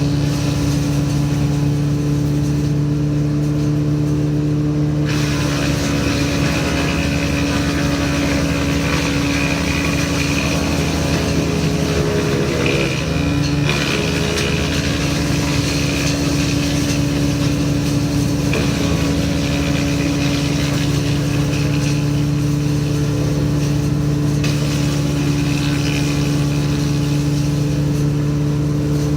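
Engine-driven woodchipper running steadily while it chips material, with a steady engine hum under shifting chipping noise. The engine note dips and wavers briefly about halfway through.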